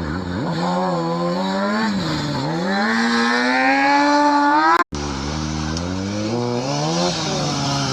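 Motorcycle engine revving up and down over and over, its pitch rising and falling every second or two. One long climb to a high rev ends in a sudden cut of a fraction of a second just under five seconds in, and then the rising and falling resumes.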